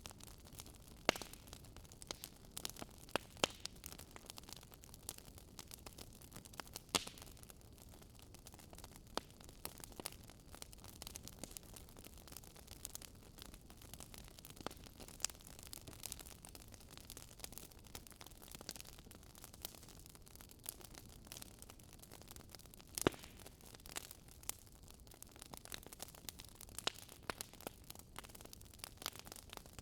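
Wood fire crackling: irregular sharp pops and snaps over a faint steady hiss, with one louder pop about three-quarters of the way through.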